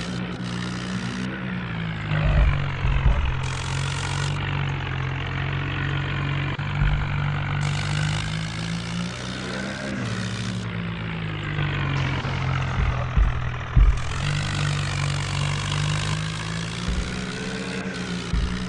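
Tractor engine running, its pitch rising and falling as the revs change, with several short low thumps.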